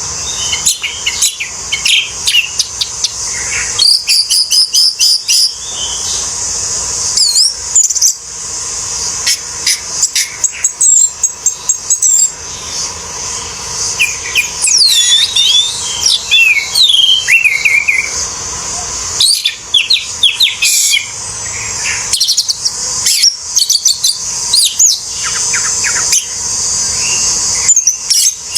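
Orange-headed thrush singing a long, varied song of quick whistled and chattering phrases, some rising and falling, with short pauses between them. A steady high hiss runs behind the song.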